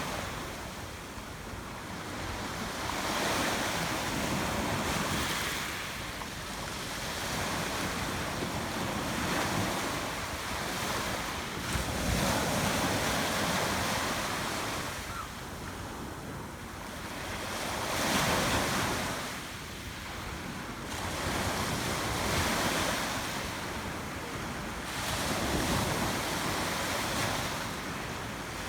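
Sea surf: waves breaking and washing up the shore, the rushing swelling and fading every few seconds, with wind buffeting the microphone.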